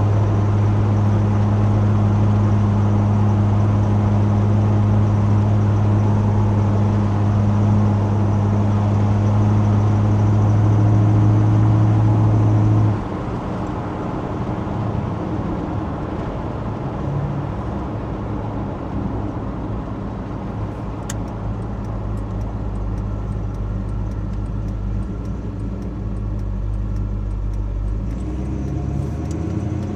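1983 Chevy C10 pickup's engine and exhaust droning steadily while driving. A little before halfway the drone drops off to a quieter, rougher low rumble, and it rises again near the end.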